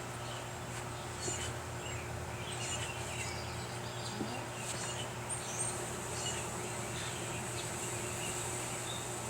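Honeybees buzzing steadily around a hive, with short bird chirps scattered over the top.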